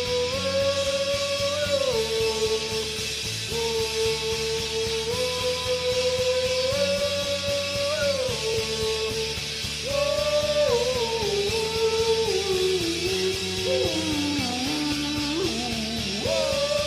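Indie rock band playing: a melody of long held notes that step up and down and slide between pitches, over a dense, steady backing with guitar.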